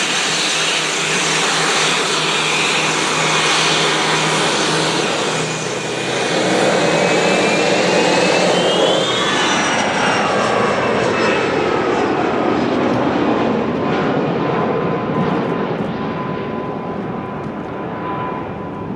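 Private jet's engines running at takeoff power, a loud, steady roar. About eight seconds in, a whine rises in pitch, then the high end fades as the jet moves away.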